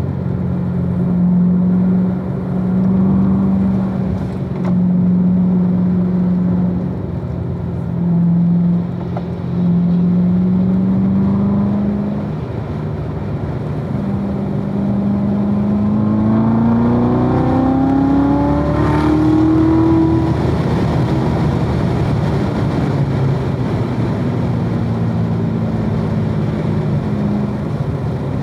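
2016 Corvette Z06's supercharged 6.2-litre V8 under way on a track, its note holding with several brief dips, then climbing steadily in pitch for about six seconds under hard acceleration before dropping off, then holding again. Road and wind noise run under it.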